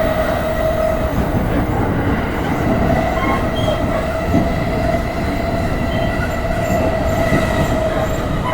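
Electric commuter train running on ground long welded rail, heard inside a passenger car: a steady low rumble with a held, singing tone from the wheels on the ground rail (rail-grinding noise).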